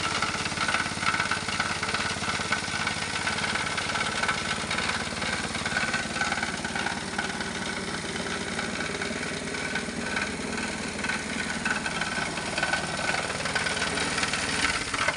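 Small plastic shredder machine running steadily, a dense mechanical clatter with a steady whine through it.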